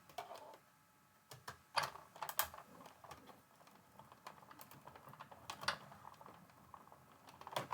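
Scattered light taps and clicks of paper and small craft tools being handled on a work table, a few sharper ones about two seconds in and again near the end.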